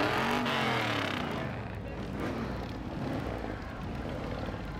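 Ford Mustang GT's 5.0-litre V8 revved loudly through its exhaust, its pitch rising and falling. About a second in it drops back to a low, steady running.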